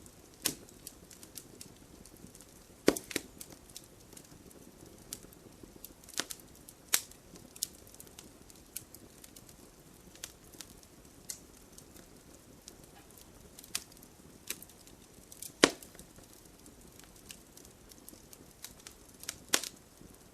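Wood fire in a fireplace crackling: irregular sharp pops and snaps from the burning logs over a faint low rush of flame, with three louder pops about three seconds in, near sixteen seconds and near the end.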